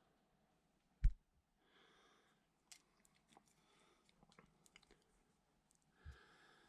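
A single heavy thump about a second in, followed by scattered light clicks and taps as tools and engine parts are handled during an engine teardown.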